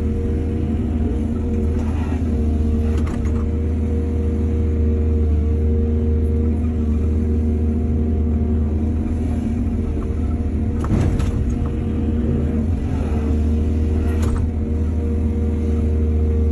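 Excavator's diesel engine running steadily under load, with a few short metallic clanks from the bucket and arm, about four of them.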